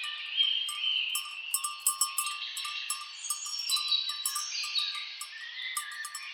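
Several birds calling over one another in short repeated notes and slurred phrases, with quick clicking ticks throughout.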